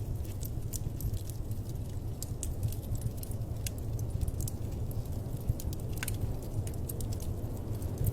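Fire crackling in a fireplace: frequent small, irregular pops and snaps over a steady low rumble.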